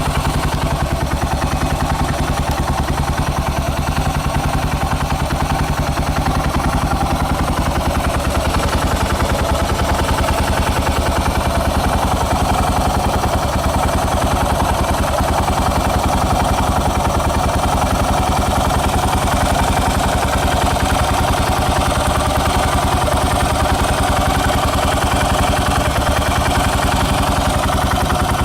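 Yamaha SR400 cafe racer with its single-cylinder four-stroke engine bored out to 534cc, idling steadily through its exhaust with an even, unchanging beat.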